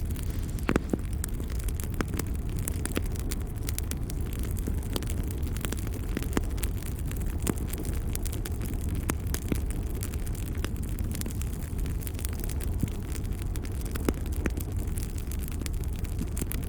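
Wood fire burning in a fireplace: a steady low rumble with irregular crackles and pops, a few of them sharper and louder.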